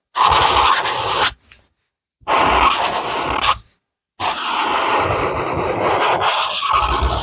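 A drawing tool scratching across paper in strokes of colouring, in three spells broken by short, sudden silences.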